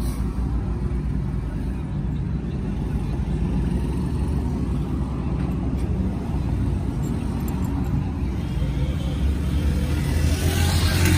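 An engine running steadily, with a low pitched rumble that gets louder and harsher near the end.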